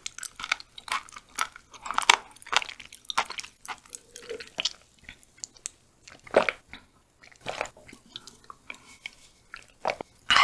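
Close-miked chewing of crunchy raw chicken, with a steady run of crisp bites and crunches that thins out past the middle, where a few swallows are heard as a drink is taken from a can.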